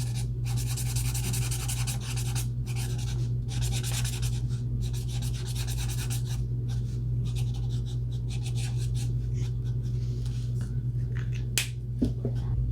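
Ohuhu alcohol marker tip rubbing across paper in repeated coloring strokes, each a short hiss with brief breaks between, over a steady low hum.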